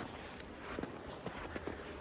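Footsteps in snow, about two steps a second.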